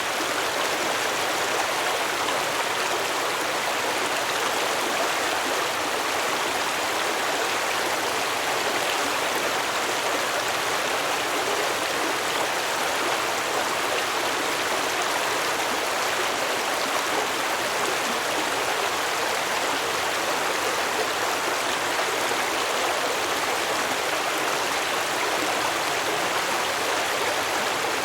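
Stream water flowing and babbling over rocks, a steady, even rush with no pauses.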